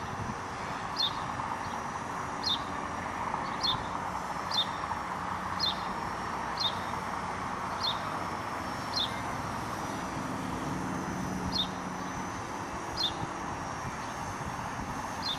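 A bird repeating a short, falling chirp about once a second, over a steady rush of wind noise.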